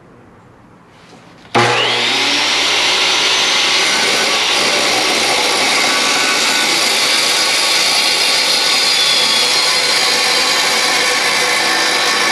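Chop saw with a wood-cutting blade starting up suddenly about a second and a half in, with a rising whine as it spins up, then running loud and steady while cutting aluminum tube.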